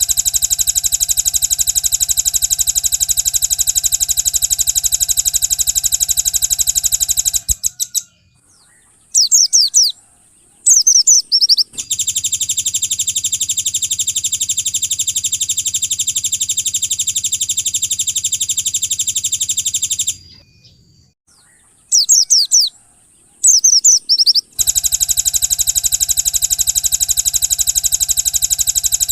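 Songbird song: long, very rapid, buzzing trills of about seven to eight seconds each, three in all, broken by short bursts of swooping chirps and brief pauses.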